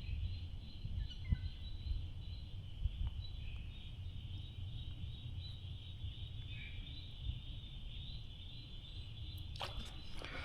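Outdoor creek ambience: a steady high-pitched hum with a few faint bird calls over a low rumble, and a short cluster of sharp clicks about a second before the end.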